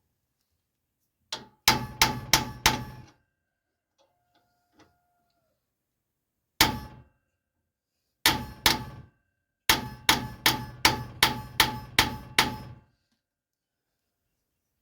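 Hammer blows on steel, each ringing with a metallic clang. They come in groups: a quick run of four, a single blow, a pair, then a steady run of about nine, roughly three a second.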